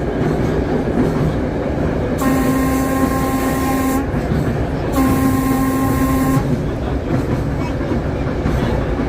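Interurban trolley car running with a steady rumble, its air horn sounding two steady blasts, the first about two seconds in and the second about five seconds in, each lasting well under two seconds.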